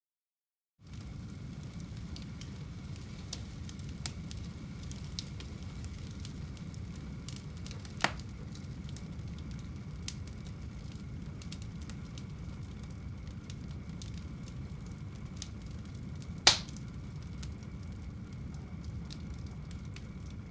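Fire burning in a fireplace: a steady low rumble with scattered crackles and two sharper pops, about 8 and 16 seconds in. It cuts in after a brief moment of total silence at the start.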